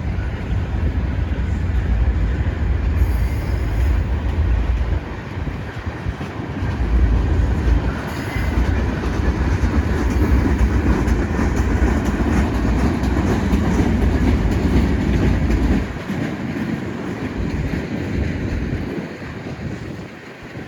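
Freight train cars rolling past on the rails with wheel clatter, and wind buffeting the microphone. The sound eases off after about sixteen seconds.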